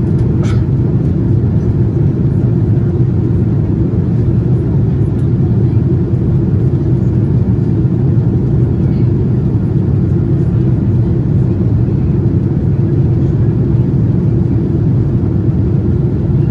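Steady cabin noise of a Boeing 787-9 airliner in flight during descent: a dense low rumble of airflow and the GEnx engines. A brief sharp click sounds about half a second in.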